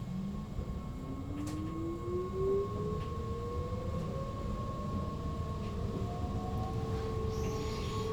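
Sprinter Lighttrain (SLT) electric train accelerating, its traction motors whining in several tones that rise steadily in pitch over a steady higher tone and a low running rumble.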